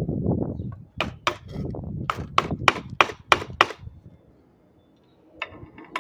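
A hammer driving staples back into a bird feeder: after some handling noise, about eight quick sharp strikes, roughly three a second, followed by two faint taps near the end.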